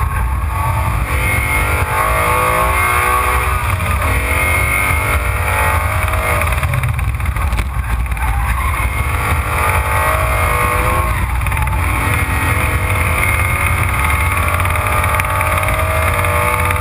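Car engine under hard acceleration on a race track. Its pitch climbs and drops back about three times, then rises slowly through the rest. It is heard from a camera low on the front splitter, under heavy wind and road rumble.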